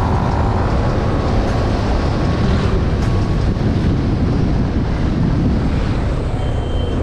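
Motorcycle running at road speed, its engine mixed with a steady rush of wind over the microphone.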